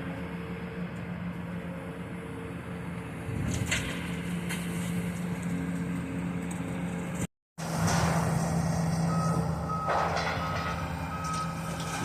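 Heavy demolition machinery running with a steady diesel engine hum, with a few sharp knocks of debris. Past halfway the sound cuts out for a moment, and near the end a backup alarm beeps about four times.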